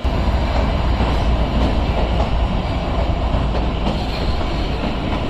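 Kalka–Shimla narrow-gauge toy train running, a loud, steady rumble and clatter of the coach's wheels on the rails, heard from a carriage window. It starts abruptly.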